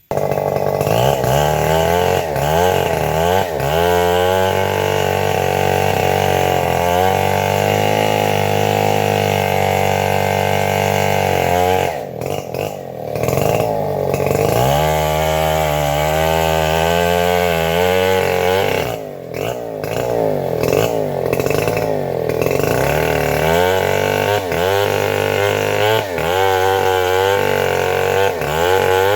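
Chainsaw running and cutting, its revs rising and falling, easing off briefly twice, about twelve and nineteen seconds in.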